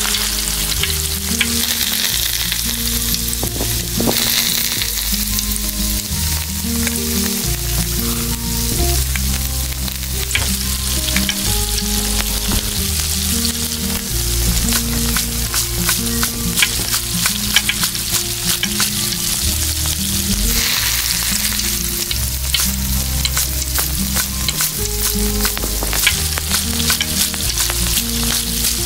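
Food sizzling in a small frying pan, with frequent small clicks and scrapes of stirring, over soft background music.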